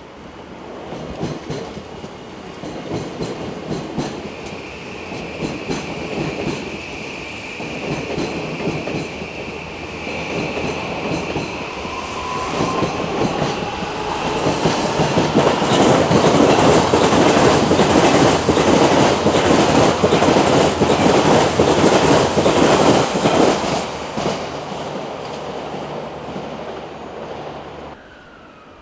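Electric commuter train pulling through, its VVVF inverter whining with a steady high tone and then a rising pitch as it speeds up. Its wheels clack rapidly over rail joints and points, loudest in the middle of the passage, and the sound cuts off suddenly near the end.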